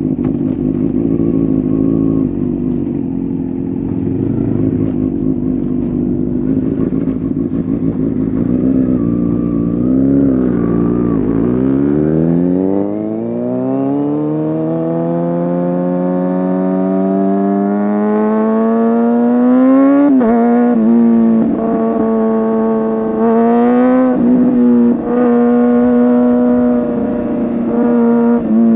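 Kawasaki ZX-6R 636 inline-four through an SC Project exhaust. It runs steadily at first, then revs up in one long rising pull from about twelve seconds in. Near the end it dips briefly a few times, as if shifting, and then holds a steady higher note.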